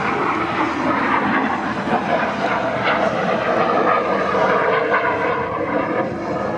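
Cessna A-37 Dragonfly's twin turbojet engines, a steady loud rushing jet noise as the aircraft flies its display.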